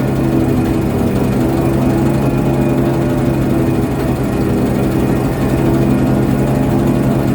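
A ship's engine running steadily, a loud, even low drone with no change in speed.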